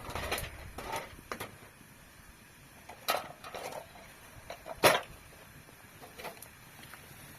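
A few scattered knocks and clatters, the two loudest sharp ones about three and five seconds in.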